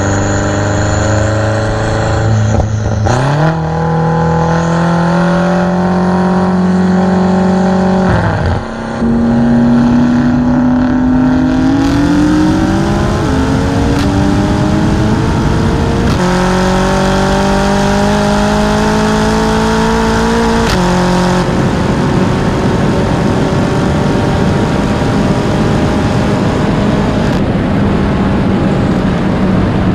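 A car engine accelerating hard through several gears: its pitch climbs and drops sharply at each upshift, about six times, then settles into a steady run for the last stretch.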